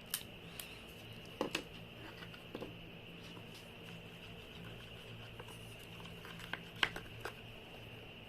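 Scattered light taps and clicks, a few seconds apart, from mixing slime colour and sand into runny glue in a bowl, over a steady faint room hum.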